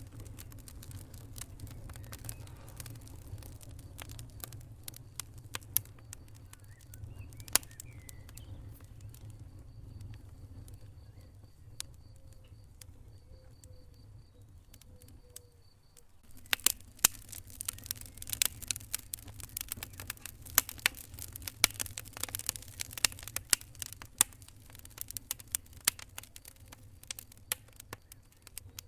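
Wood fire burning in a fireplace: a low steady rumble of flames under sharp crackles and pops, with a few loud pops in the first half and much denser crackling from about halfway on. A faint thin whistle is heard for a while before the crackling thickens.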